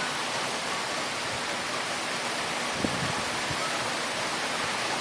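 Heavy thunderstorm rain pouring down, driven by strong wind: a steady, even rushing hiss.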